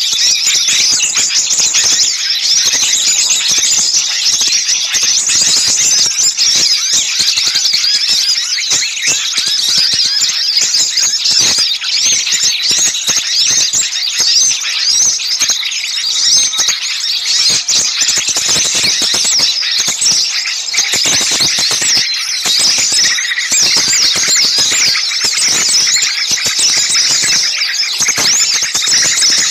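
Many small songbirds chattering and shrieking at once in a dense, unbroken high-pitched din: a bird-lure recording of noisy, agitated small-bird calls meant to draw other small birds in.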